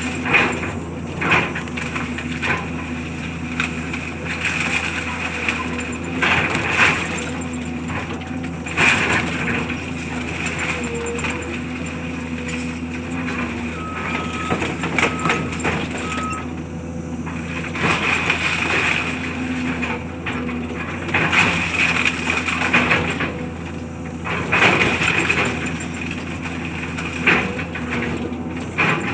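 Heavy machinery working a demolition: a steady engine hum under repeated crunching and clattering of broken material. Three short beeps come about halfway through.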